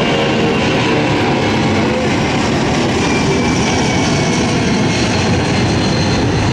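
Jet airliner engines running, a loud steady rush of noise with faint high whining tones over it.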